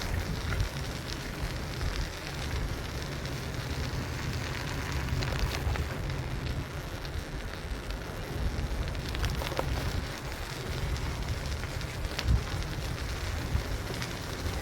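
Wind buffeting the microphone and road rumble from a Schwinn Wayfarer bicycle being ridden, with scattered light clicks and rattles and one sharper knock about twelve seconds in.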